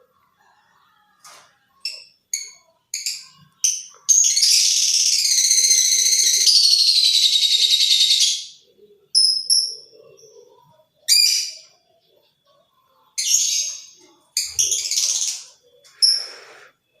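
Lovebird calling: a quick series of short, sharp high chirps, then one long shrill chattering call of about four seconds, then scattered chirps again.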